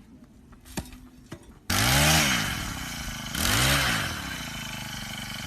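Small motorcycle engine revved hard twice, each rev rising and falling in pitch, starting suddenly a little way in and then running on at a lower, steadier level. A sharp knock comes before it.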